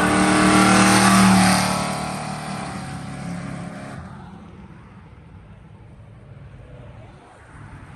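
A car launching hard from a stop, its engine revving loud as it pulls away, then fading into the distance over the next few seconds until only a faint murmur is left.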